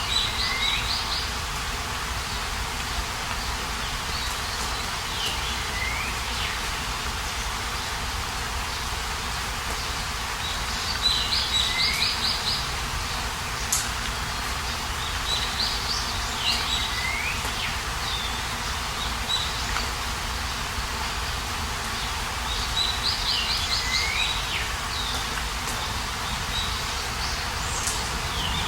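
Songbirds singing short high trilled phrases with down-slurred notes, repeated every few seconds over a steady outdoor hiss.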